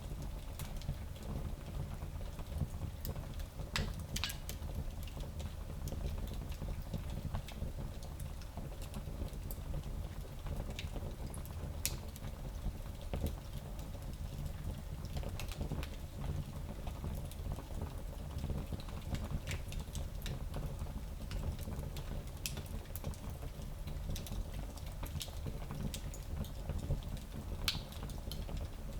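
Fire burning in a small fireplace: a steady low rumble with scattered sharp pops and crackles, a few a second at most, standing out now and then.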